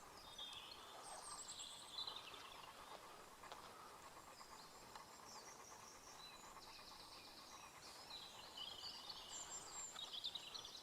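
Faint birdsong from several small birds: high chirps and trills, busiest in the first few seconds and again near the end.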